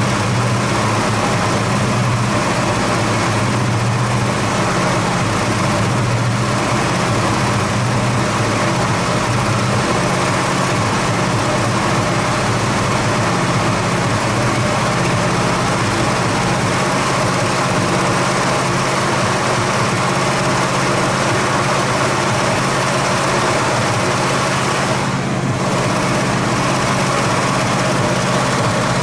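Carbureted AMC 290 V8 of a 1969 Javelin idling steadily on its first run after sitting about six months, with one brief dip near the end.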